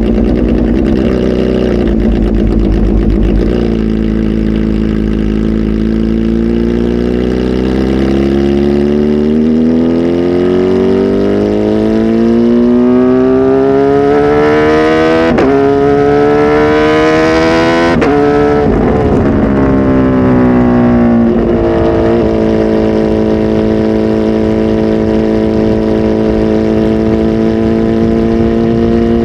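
Kawasaki Z H2 SE's supercharged inline-four, flash tuned and on a full exhaust, running steadily, then climbing in revs for about ten seconds. The revs dip briefly about fifteen seconds in, as at a gear change, and climb again. They then fall away and settle to a steady pitch for the last several seconds.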